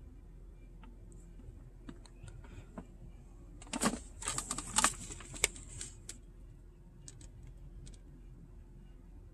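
Small hard objects being handled: a quick cluster of clicks and rattles about four seconds in, with a few scattered clicks before and after, over a faint steady hum.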